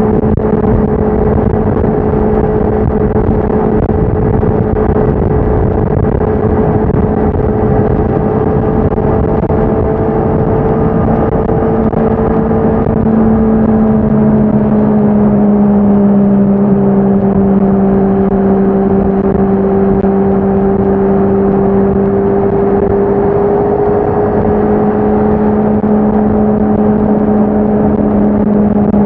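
Honda CBR650R's inline-four engine and exhaust at a steady cruise. The engine note sags slightly about halfway through and picks up again near the end.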